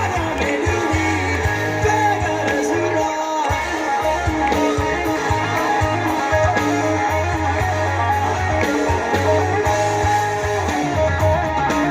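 Live rock band playing: electric guitar with bass and drums, with some singing.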